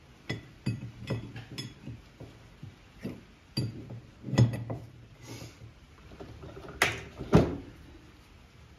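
Hand wrenches clinking and knocking against metal: a string of sharp metallic clinks, some ringing briefly, with two louder knocks near the end.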